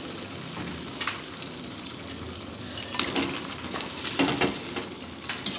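Chili chicken gravy sizzling in a wok as fried chicken pieces are stirred in, with the spatula scraping and knocking against the pan several times.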